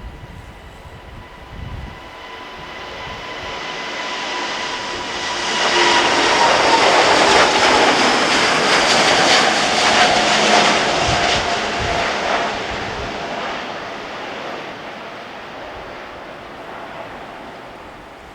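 Jet airliner's turbofan engines at takeoff power, growing louder as the plane approaches, loudest for several seconds as it passes, then fading away. The engine whine drops in pitch as it goes by.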